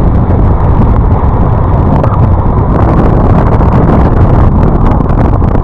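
Loud, steady wind rush on the microphone mixed with road and engine noise from a Yamaha NMAX scooter riding at speed.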